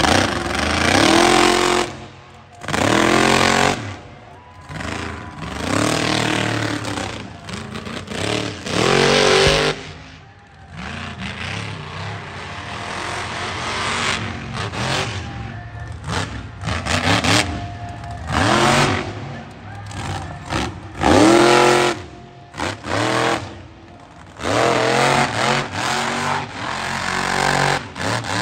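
Monster truck engine revving hard in repeated bursts, each rising sharply in pitch then dropping away, with a lull of lower engine noise in the middle before the revving starts again.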